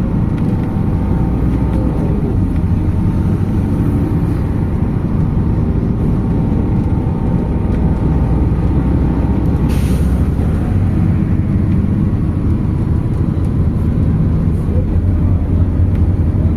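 MAZ 206 city bus's diesel engine and drivetrain running steadily on the move, heard from inside the passenger cabin. About ten seconds in comes a short hiss of released air from the bus's pneumatics.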